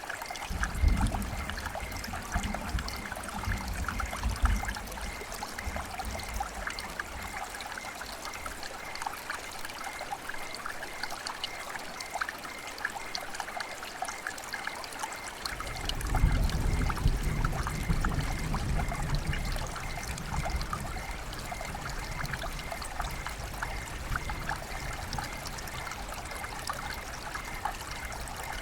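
River water flowing and trickling in a steady splashing babble. A low rumble swells under it at the start and again about halfway through.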